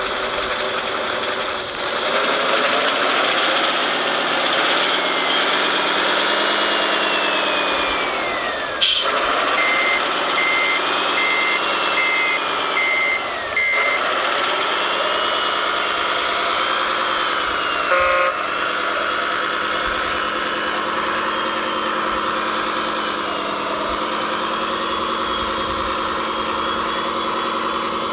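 Scale RC construction machine running on its sound module's simulated diesel engine, with the whine of its electric drive rising and falling as it moves. About a third of the way in, a reversing alarm beeps six times.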